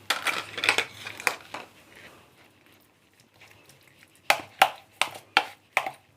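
Chicken legs being mixed into a yogurt-and-spice marinade in a bowl: squelching, sloshing strokes, then a run of about five quick, even strokes near the end.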